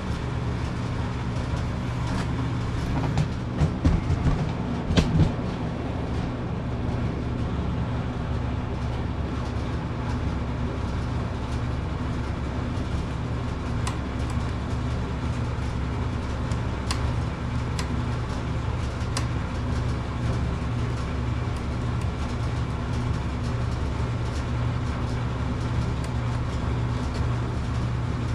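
Tecumseh small engine on a Craftsman pressure washer, fitted with a replacement carburetor, running steadily. A few sharp knocks come about three to five seconds in.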